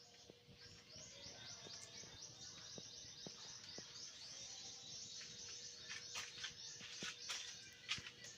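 Faint bird chirping: a quick run of short high chirps, about four or five a second, for the first few seconds, then scattered sharper chirps in the second half.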